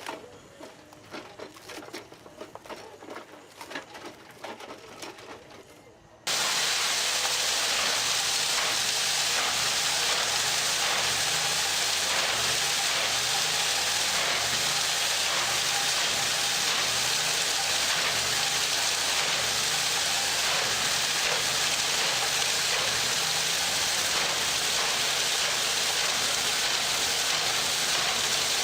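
Quiet scattered clicks. About six seconds in, an abrupt cut brings a loud, steady hissing machine noise with an even low pulse running under it.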